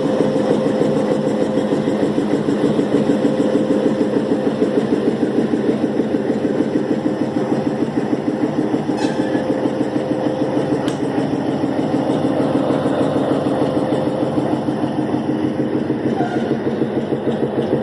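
A Nilgiri Mountain Railway locomotive's engine running steadily at a standstill in the station, with a steady hum and a fast, even throb.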